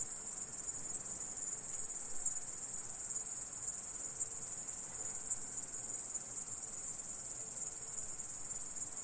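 An insect stridulating: a steady, high-pitched buzzing trill with a fine rapid pulse, unbroken and even in level.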